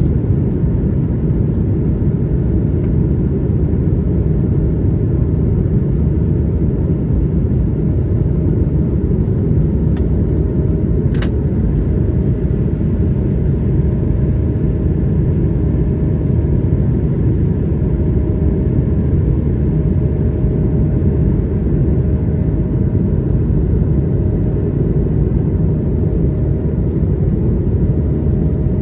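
Airbus A220-100 cabin noise in the climb: a steady, deep rumble of its Pratt & Whitney geared turbofans and the airflow, with a faint steady hum above it. A single sharp click sounds about eleven seconds in.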